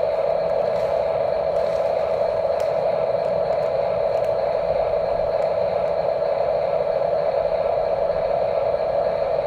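Small electric gear motor of an RC construction model running steadily at one pitch, over a low rumble.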